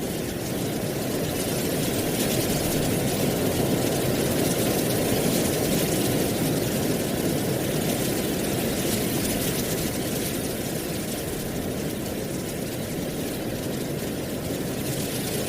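Wind blowing through dry autumn leaves: a steady rush with a faint rustling hiss above it, swelling gently a couple of seconds in and easing off later.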